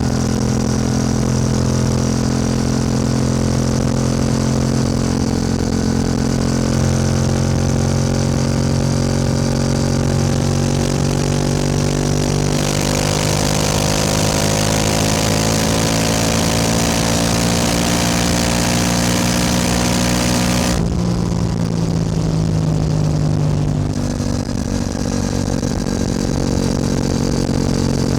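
Yamaha R7 motorcycle engine running under way, its note climbing slowly for much of the time as the bike gathers speed, with a rush of wind noise that builds in the middle and cuts off suddenly about two thirds of the way through; near the end the engine note steps down lower.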